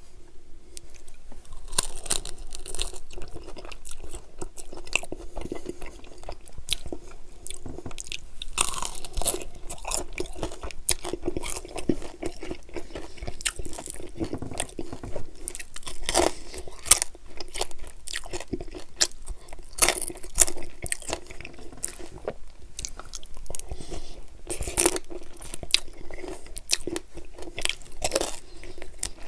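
Chewing and biting into buffalo chicken wings close to the microphone: a dense, irregular run of crunches and clicks as the wings are torn apart and eaten.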